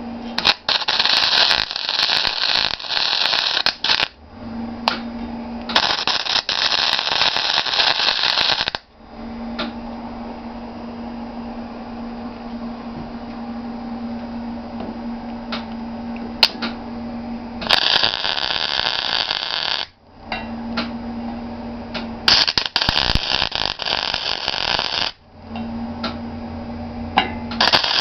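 Arc welding on a mini bike frame: five short welding passes, each a loud crackling hiss of two to three seconds, with a steady hum from the machine in the pauses between them.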